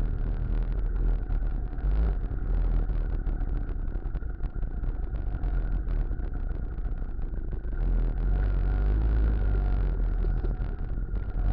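Engine of a Muravey cargo motor-scooter trike running steadily while it is ridden, with a dense rattling noise over the low engine sound; it gets a little louder about eight seconds in.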